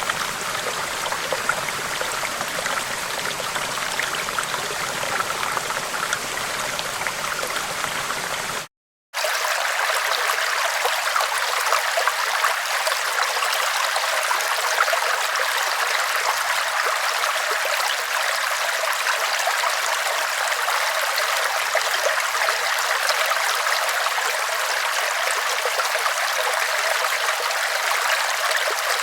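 River water flowing in a steady, even wash. About nine seconds in it cuts out for half a second and returns thinner and brighter, without its low rumble.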